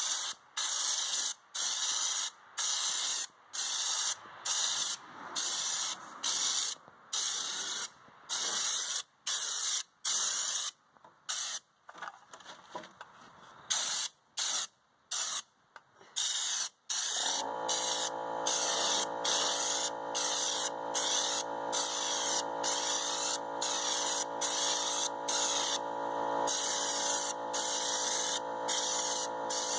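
Raptor liner spray gun driven by compressed air at 60 psi, hissing in short bursts as the trigger is pulled and let go, about once or twice a second. About seventeen seconds in, a steady motor hum starts underneath and keeps running.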